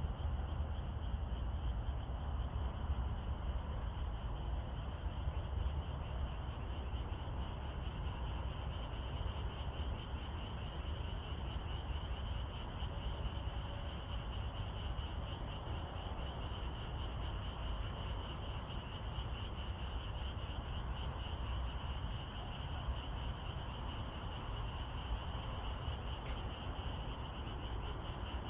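Steady evening chorus of calling animals in the countryside: a dense, high, pulsing trill at one pitch that never breaks, over a constant low rumble.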